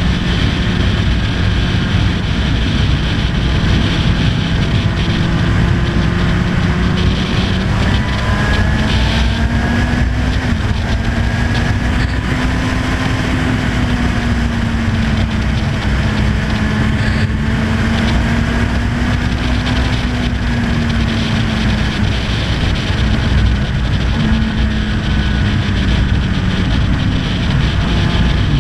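Honda CB1000R's inline-four engine running at road speed under a steady rush of wind noise. Its pitch climbs as it accelerates about eight to ten seconds in, holds, then eases off from about twenty seconds and drops lower near the end.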